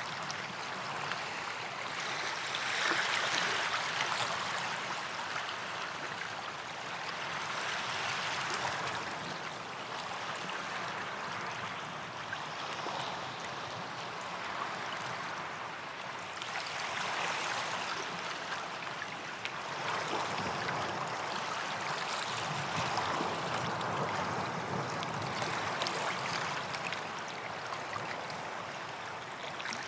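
Small sea waves washing onto a sandy beach: a continuous hissing wash that swells and falls back every four or five seconds.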